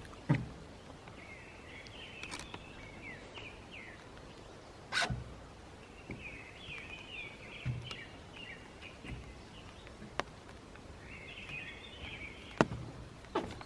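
A small bird twittering in three short bouts of quick chirps, with a few single knocks like footsteps.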